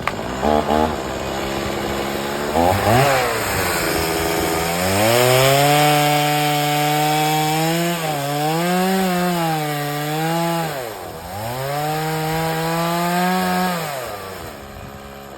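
Chainsaw revving in short blips, then running at high speed while cutting wood, its pitch dipping and recovering a couple of times under load before it winds down near the end.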